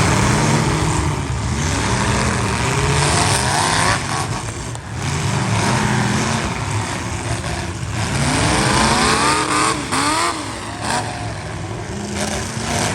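Several demolition derby cars' engines revving up and down at once, some pitches rising and falling against each other, with a few sharp bangs of cars colliding.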